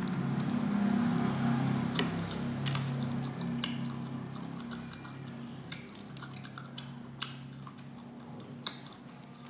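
Close-up mouth sounds of eating meat off the bone by hand: chewing, biting and wet smacking, with short sharp clicks scattered through. A low steady hum runs underneath and fades away over the stretch.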